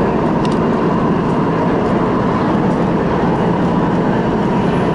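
Interior running noise of an MTR West Rail Line CRRC Changchun electric train in motion: a steady rumble with a faint whine, and a light click about half a second in.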